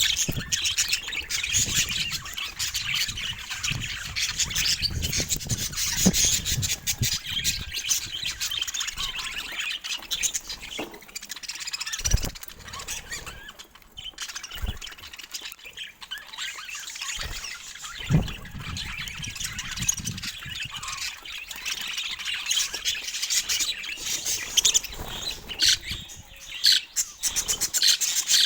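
Budgerigars chattering and chirping continuously in a busy, fast warble, with a few dull low thumps about halfway through.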